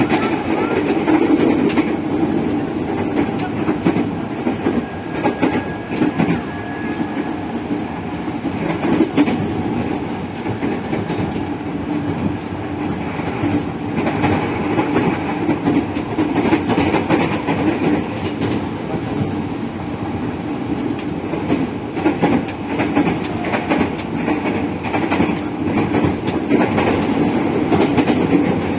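Running noise inside the motor car of a 205 series electric multiple unit: a steady rumble of wheels on the rails, with frequent clicks as the wheels pass rail joints.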